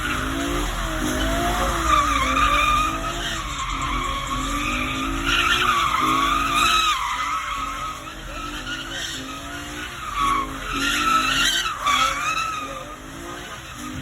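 A car sliding under power, its tyres squealing in a wavering screech while the engine revs climb and fall back over and over. The squeal dips for a moment around the middle and grows again toward the end.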